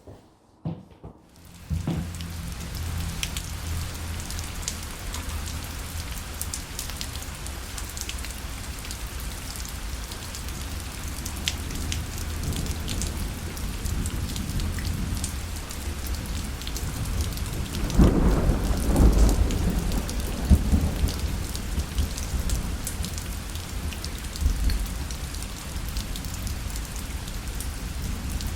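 Rain falling on a parasol, starting about a second and a half in: a steady hiss of rain with sharp drop ticks over a low rumble. A louder roll of thunder comes about two-thirds of the way through.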